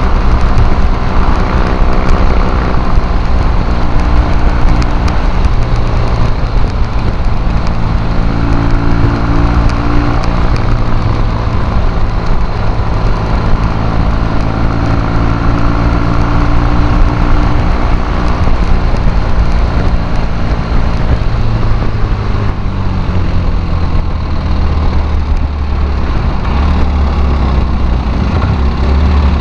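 Triton café racer's Triumph parallel-twin engine running at road speed, heard from the bike with wind rush on the microphone; the engine note drops in the last several seconds as the bike slows.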